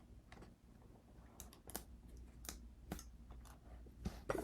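Faint, irregular light clicks and taps, like small hard objects being handled on a work surface, with a louder short rustle near the end.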